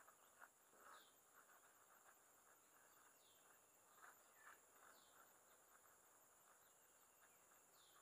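Near silence: faint outdoor ambience with a bird's short falling chirps, about four of them, spaced a second or two apart.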